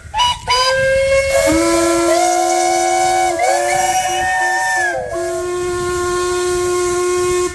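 Several steam traction engine whistles blowing together at different pitches over a hiss of steam. Some whistles drop out about five seconds in, while one keeps sounding until it stops suddenly near the end.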